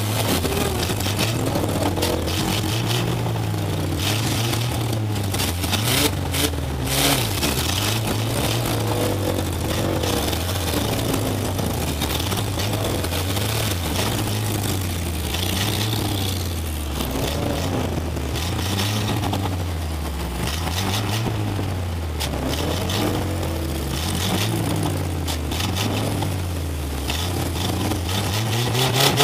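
Demolition derby car's engine heard from inside the cab, revving up and falling back over and over as the car is driven around, with a few sharp knocks about six to seven seconds in.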